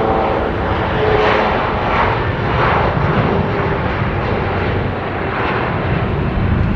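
Jet airliner's engines, a loud steady rushing noise with a faint whine in it.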